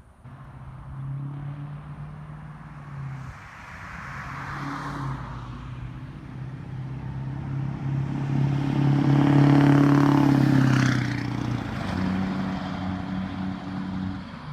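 Duramax LB7 6.6-litre V8 turbo diesel in a 2004 Chevy 2500HD running through a 4-inch straight-pipe exhaust, growing steadily louder to a peak about ten seconds in, then easing off.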